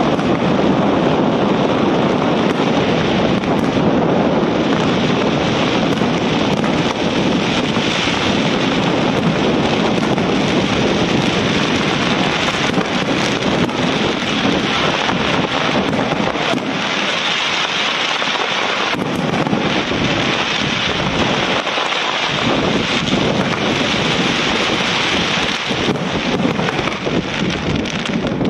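A dense, continuous barrage of aerial fireworks: many shells bursting together and crackling stars running into one steady wash of crackle and bangs. The deep booms ease off briefly about two-thirds of the way through.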